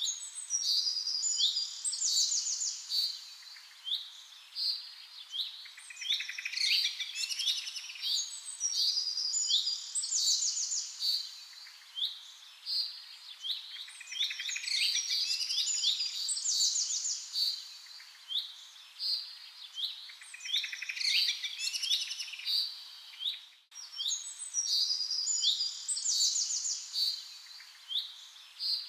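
A chorus of small birds chirping, with many short high chirps overlapping quick runs of rapidly repeated notes. There is a brief break in the sound about three-quarters of the way through.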